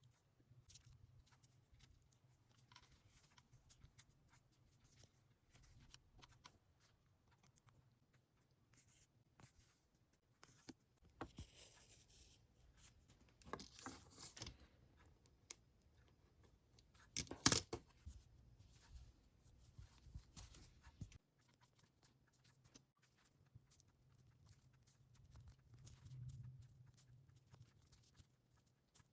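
Quiet handling of fabric and sewing tools: soft rustling and scattered small clicks, with one sharp click a little past halfway.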